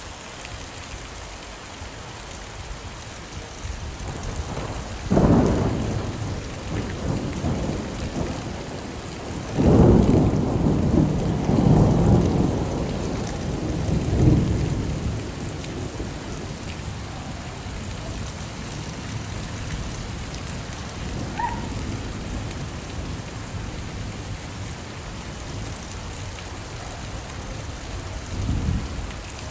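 Steady rain hiss with rolls of thunder: a rumble about five seconds in, a longer and louder rolling stretch from about ten to fifteen seconds, and a fainter rumble near the end.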